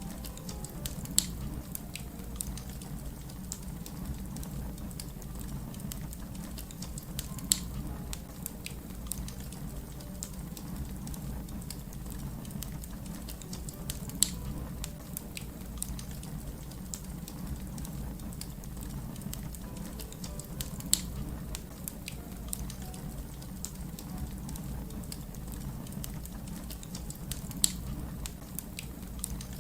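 Fire crackling over a steady low rumble, with constant small crackles and a sharp loud pop about every seven seconds.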